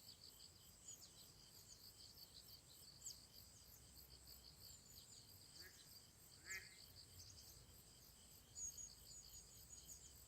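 Faint, steady high-pitched insect chorus, crickets trilling in a regular pulse, with a few short high chirps, the clearest about 3 s and 6.5 s in.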